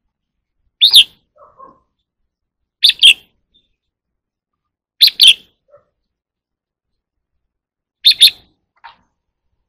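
Red-whiskered bulbul calling: four short, loud, high-pitched two-note phrases, spaced about two seconds apart.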